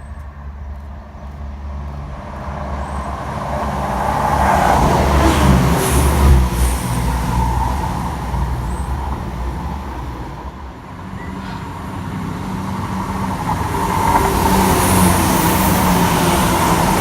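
InterCity 125 high-speed train with Class 43 diesel power cars passing through at speed: a heavy rumble that builds to its loudest about five or six seconds in, then fades. Near the end another diesel train's engines grow louder as it approaches.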